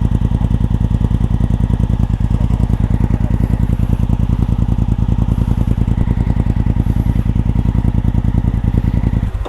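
Suzuki V-Strom 250 SX's single-cylinder engine running at low, steady revs, a rapid even chugging that stops abruptly near the end.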